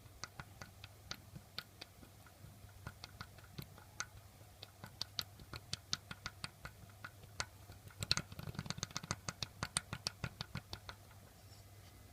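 Irregular light metallic clicks and taps, with a quick flurry about eight seconds in, from the BMW M20B25 oil pump drive being rocked by hand: it knocks because it is loose in its worn bushings.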